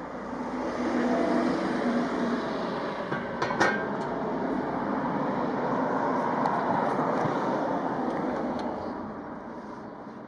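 A vehicle passing nearby: a steady rumble and hiss that swells up, holds for several seconds, then slowly fades. A sharp click sounds about three and a half seconds in.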